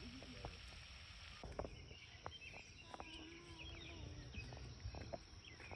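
Faint outdoor ambience: a low rumble with scattered small bird chirps and a few clicks.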